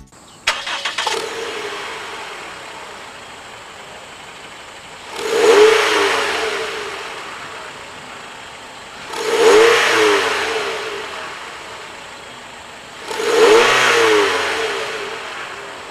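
Exhaust of a Toyota Noah's 2.0-litre four-cylinder engine through an HKS ES Premium aftermarket muffler: the engine starts about half a second in and settles to idle, then is revved three times, each rev rising and dropping back to idle, about four seconds apart.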